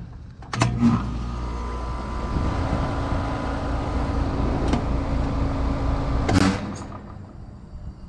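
HVAC outdoor unit (compressor and condenser fan) starting with a clunk and running with a loud, steady hum, then stopping with another clunk about six seconds later. It is the loud running noise being tracked down, put down to a compressor about to fail.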